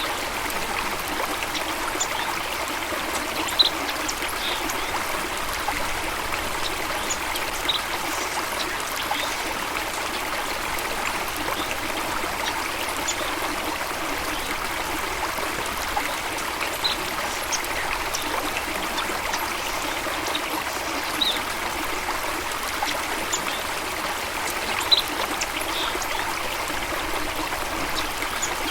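Steady running water of a stream or small waterfall, a continuous trickling rush with a few brief high blips now and then.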